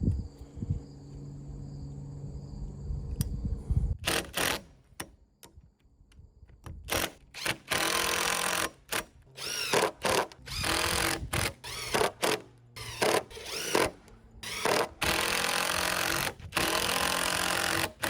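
Cordless drill running in repeated bursts of half a second to two seconds, driving screws into deck joist lumber; the bursts start about four seconds in.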